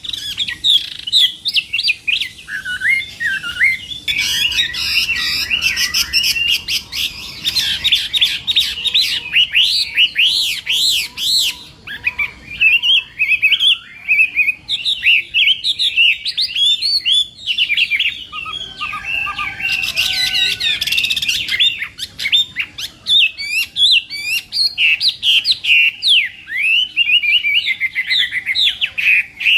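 Chinese hwamei singing a long, rapid, varied song of whistled phrases without a break, with harsh, scratchy passages.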